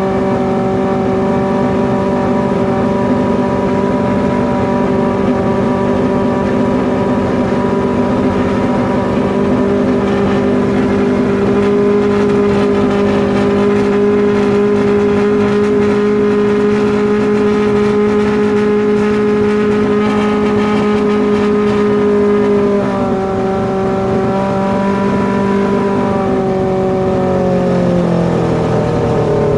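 Kawasaki ZX12R drag bike's inline-four engine running at a steady speed under the new MaxxECU tune. The pitch dips slightly a little past two-thirds of the way through, then falls as the revs drop near the end.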